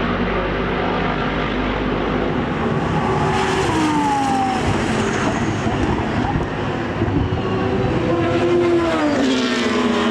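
Racing car engines running hard on track, the engine note rising and falling several times as the revs change.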